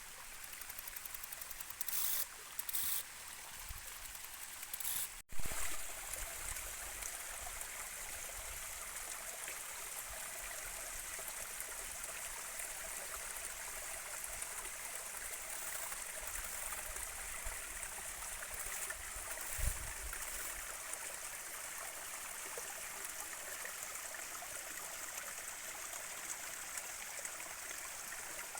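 Steady rushing and trickling of a small stream of running water. It breaks off for an instant about five seconds in, and there is a low thump near the twenty-second mark.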